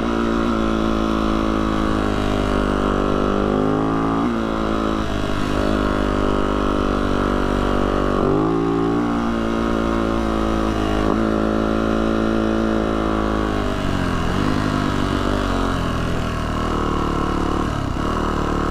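Yamaha YZ450F dirt bike's four-stroke single-cylinder engine running under way, its pitch dropping and climbing back several times as the throttle is eased off and opened again.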